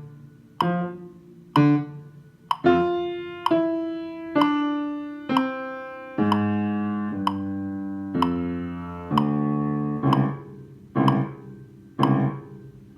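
Piano music: struck notes and chords about once a second, each dying away, with longer held chords in the middle.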